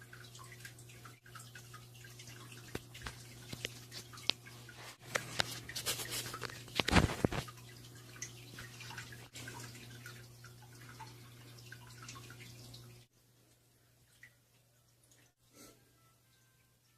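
Faint water dripping and trickling over a steady low hum, with a louder stretch of clicks and splashy noise about six to seven seconds in. The hum cuts off suddenly about thirteen seconds in, leaving only a few soft knocks.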